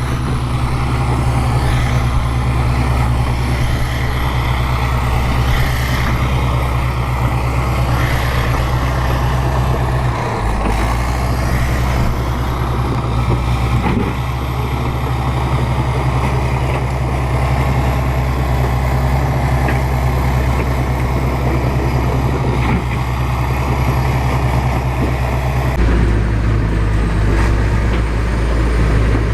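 Bulldozer diesel engine running steadily under load. Its note shifts about ten seconds in and again near the end.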